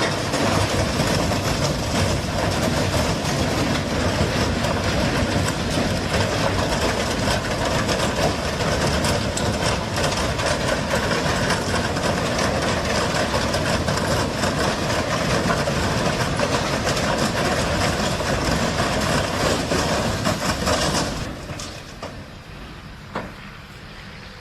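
Loud, steady rumble and rush of a heavy vehicle running close by, which eases off about three-quarters of the way through to a quieter hum, with a single sharp click near the end.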